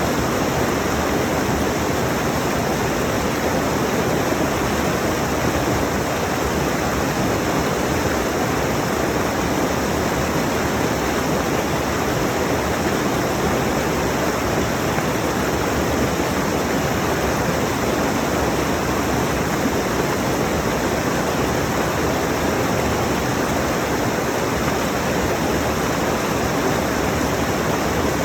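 Mountain stream rushing over rocks: a steady, unbroken roar of water.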